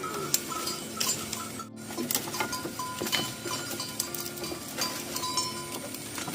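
A herd of cattle moving along a road, lowing now and then, with many small clinks and knocks throughout.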